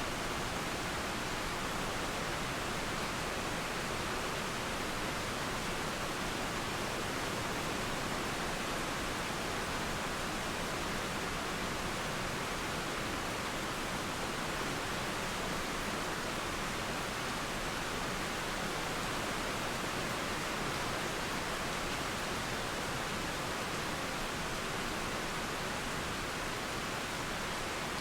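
Steady rain and a flowing river blended into one even, unbroken hiss, with no thunderclaps or birdsong.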